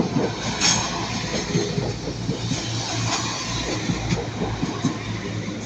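Northern Class 195 diesel multiple unit passing at close range: a steady rush of running noise with the low drone of its engines and short irregular clicks from the wheels over the track.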